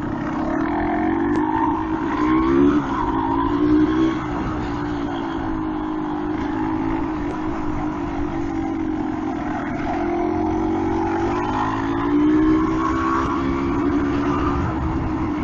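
Yamaha DT200R's liquid-cooled two-stroke single-cylinder engine running at low revs, the steady drone rising slightly in pitch a few times as the throttle is opened a little.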